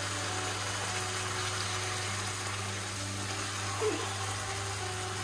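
Chicken pieces sizzling in tomato sauce in a frying pan, a steady hiss. About four seconds in, a wooden spatula knocks against the pan as the chicken is stirred.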